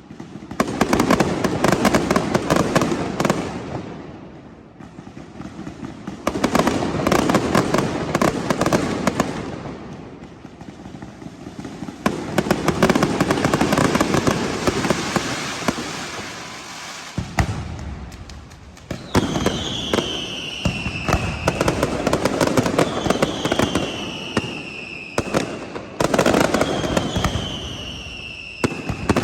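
Fireworks display: dense, rapid crackling bangs that come in surging waves. In the last third, high whistles glide downward in pitch, repeating every couple of seconds over the crackle.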